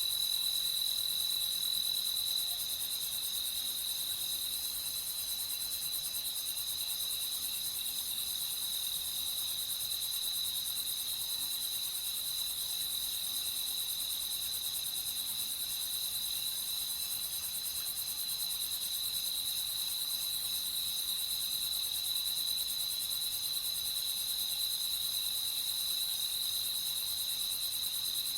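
Crickets chirring steadily in a night chorus, a continuous high trill with no breaks.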